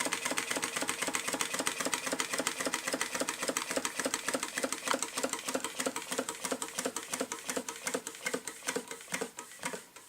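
Homemade Stirling engine running with a fast, even mechanical clatter of its moving parts; the beat slows and grows quieter over the last few seconds as the engine runs down.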